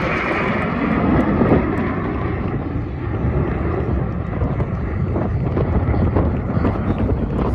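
Fixed-wing aircraft passing overhead, its engine noise strongest at first and easing away, with steady wind rumble on the microphone.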